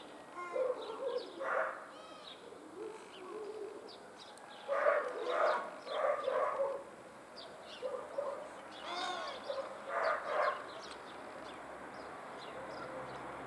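Small birds chirping and calling on and off around the nest, with louder bunches of calls about five seconds in and again about nine to ten seconds in.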